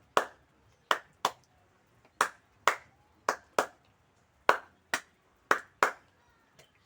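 Sharp hand claps, mostly in quick pairs, about one pair a second.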